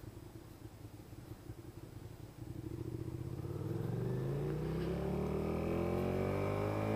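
Suzuki SFV650 Gladius V-twin motorcycle engine running low at first, then accelerating from about two and a half seconds in, its pitch rising steadily and growing louder.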